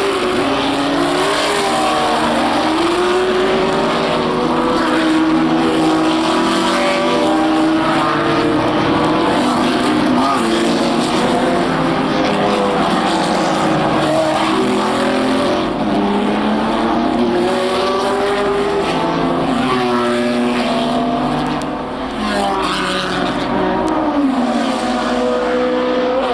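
Racing car engines revving hard, their pitch rising and falling as they go through the gears, with more than one engine note overlapping at times.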